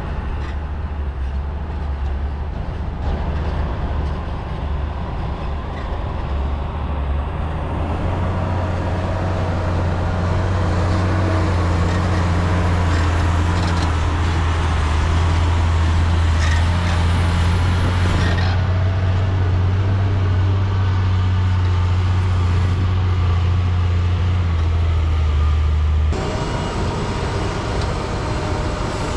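Heavy diesel construction machinery running: a steady low engine drone that grows louder about eight seconds in and drops suddenly a few seconds before the end.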